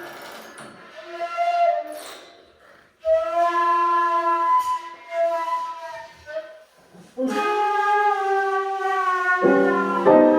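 Flute-like wind instrument playing long held notes with short pauses between them, one note sliding up at its start. Near the end a chord of several notes comes in suddenly underneath.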